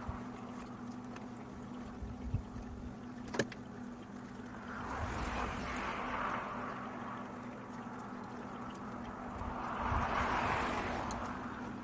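Road vehicles passing by, two of them, each a slow swell of tyre and engine noise that builds and fades over a few seconds, over a steady low hum. A single sharp click about three and a half seconds in.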